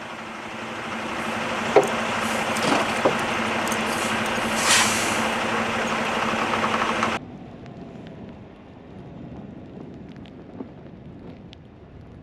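A motor vehicle's engine running with a steady hum, with a few sharp knocks and a louder scraping sound about halfway in. It cuts off suddenly about seven seconds in, leaving much quieter outdoor noise.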